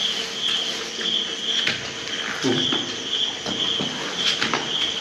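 Crickets chirping steadily, a high chirp repeating about every half second or so, with scattered clicks and rustles from people eating.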